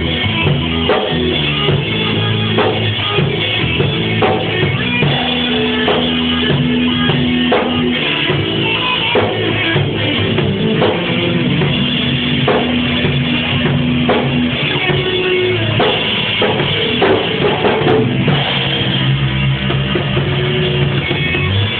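Rock band playing an instrumental passage: guitar, bass guitar and drum kit, with a steady drum beat.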